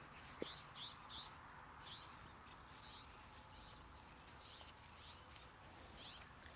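Near silence, with several faint, short, high chirps from a small bird scattered through it.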